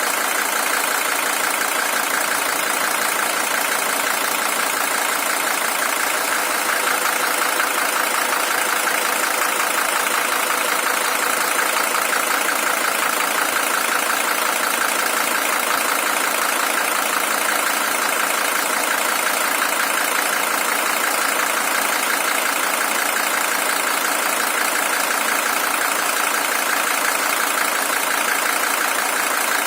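Mercedes-Benz W123 300TD's OM617 five-cylinder diesel engine, original at 620,000 km, idling steadily with no change in speed.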